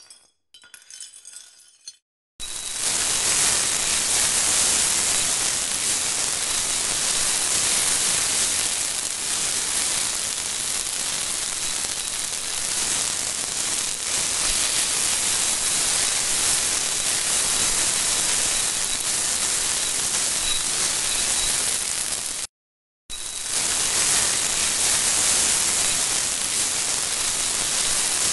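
A few faint clinks, then from about two seconds in a steady, loud sizzle of tomatoes frying in oil in a pan. The sizzle breaks off for a moment about three-quarters of the way through, then resumes.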